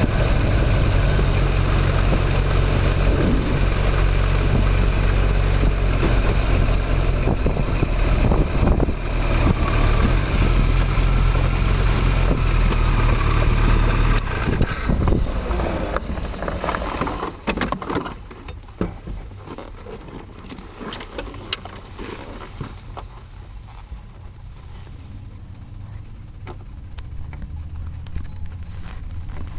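Motorcycle engine idling with a steady low hum, then switched off about halfway through. After it stops, only scattered light clicks and handling noises remain.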